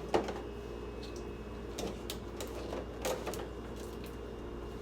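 Condiment bottles and jars being set down and shifted on refrigerator shelves: a scatter of short clicks and knocks, the loudest just after the start and another about three seconds in, over a steady low hum.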